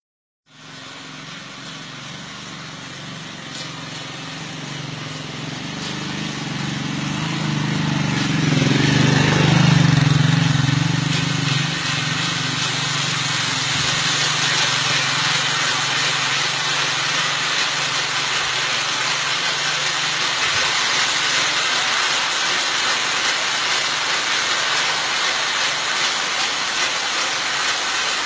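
Metro train coming into the station: a low rumble that grows louder for about ten seconds, peaks, then gives way to a steady rushing noise as the train runs alongside the platform.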